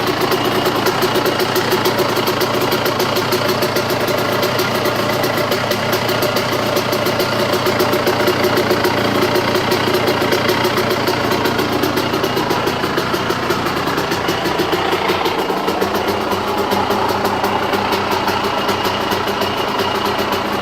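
Motorcycle engine idling steadily with a rapid knocking noise that the owner cannot place: he thinks it comes from the engine but wonders whether it is just the way the bike is. The engine note shifts slightly about two-thirds of the way through.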